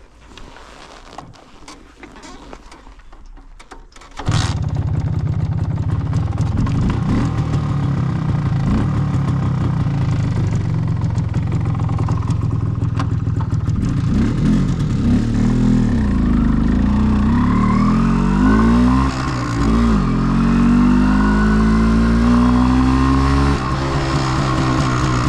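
MZ ETZ 250 single-cylinder two-stroke motorcycle engine running through its original exhaust. It comes in suddenly about four seconds in, runs steadily, then its pitch rises and falls several times in the second half as it is revved and ridden off.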